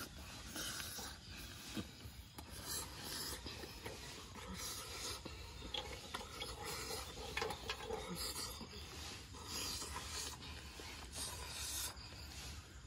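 Close-up chewing of roasted scorpions, an irregular run of raspy crunches.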